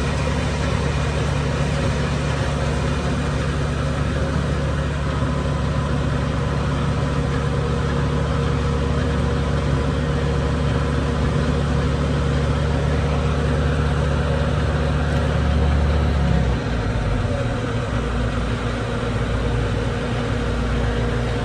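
Farm feed mill grinding ear corn, driven by a diesel engine running steadily. A little past three-quarters of the way through, the deep engine drone changes note and eases slightly.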